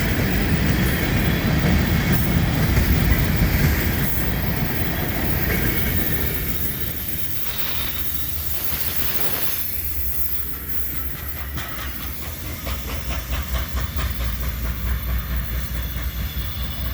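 CSX freight train's cars rolling past with a loud rumble. From about ten seconds in, the wheels clack rhythmically over the rail joints.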